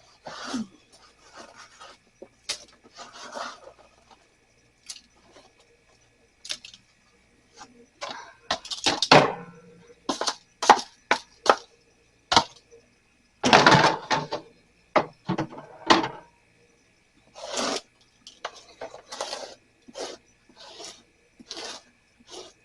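Objects being handled: irregular knocks, clatter and rubbing, with louder scraping bursts about nine and fourteen seconds in.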